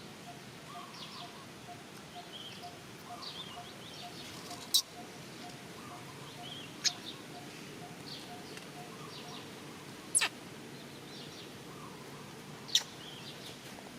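Outdoor natural ambience with scattered bird chirps and a soft note repeating about three times a second that stops about two-thirds of the way through. Four short, sharp, high-pitched calls or clicks stand out above it, spaced a few seconds apart.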